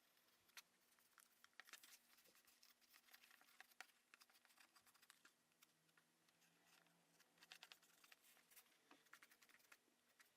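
Faint, irregular small clicks and taps from close-up handwork, coming in clusters, over a faint low hum.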